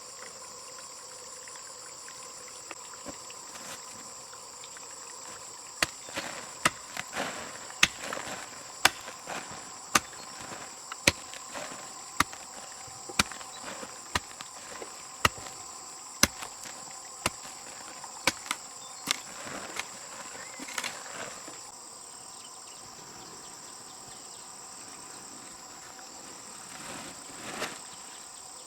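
Steady high insect chorus. For about fifteen seconds it is broken by a series of sharp knocks, roughly one a second, starting about six seconds in.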